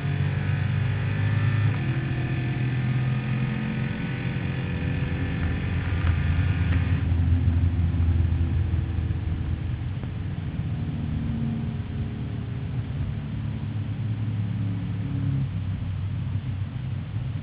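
A drag-racing vehicle's engine at full throttle, its pitch climbing as it accelerates. About seven seconds in the higher part of the sound cuts off abruptly, leaving a low engine rumble.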